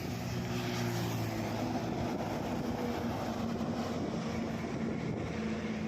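Tata BS6 16-tyre truck's diesel engine running steadily under way, a low hum over road and wind noise.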